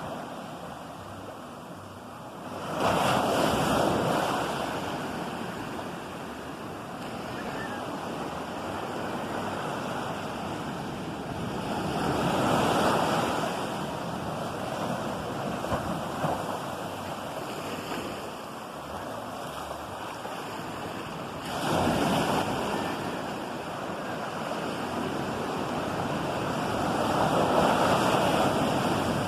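Ocean surf: waves breaking on the shore with a constant wash between them. Four waves crash and swell up, about three, twelve and twenty-two seconds in and near the end, each fading over several seconds.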